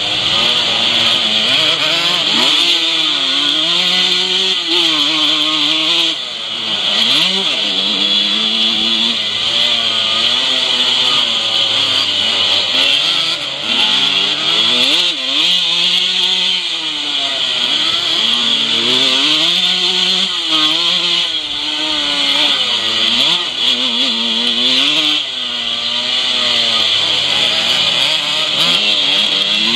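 Classic 125cc two-stroke motocross bike engine at race pace, heard onboard, revving hard. The revs rise and fall again and again as the rider shifts gears and rolls on and off the throttle, with a brief drop about six seconds in.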